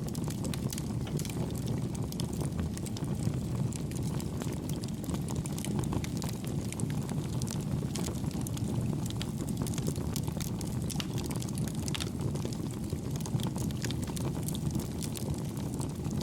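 Campfire burning: a steady low rumble of flames with scattered small crackles and pops throughout.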